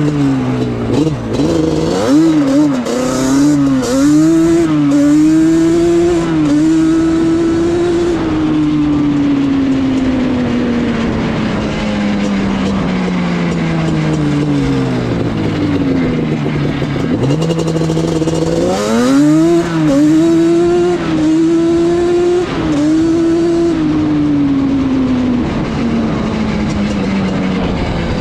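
Yamaha Banshee's twin-cylinder two-stroke engine being ridden. Its revs rise and dip repeatedly over the first several seconds, fall away in one long glide, climb again in a series of quick rises about two-thirds through, and ease off near the end.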